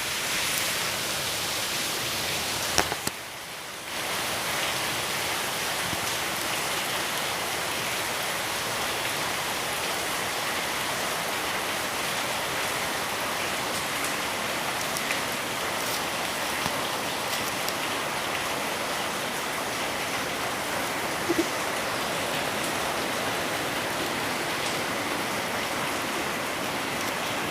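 Heavy rain falling steadily in a thunderstorm, a dense even hiss. The level briefly drops for about a second, about three seconds in, and a short sharp sound stands out about three quarters of the way through.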